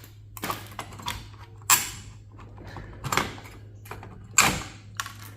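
Metal server parts being handled while an aluminum heatsink is worked loose: about six sharp clunks and scrapes, the loudest near the middle and about four seconds in, over a low steady hum.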